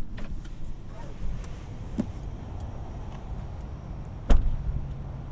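Inside the cabin of a Tesla Model Y: a low steady hum with a few light clicks, then one heavy thump about four seconds in, typical of a car door shutting.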